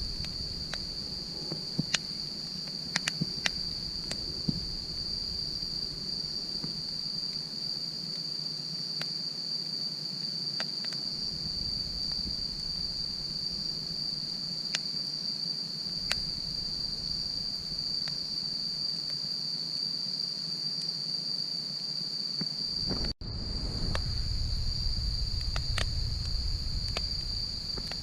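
Wood fire crackling, with sharp pops every few seconds, over a steady high chorus of crickets and a low rumble. The sound cuts out for an instant about 23 seconds in.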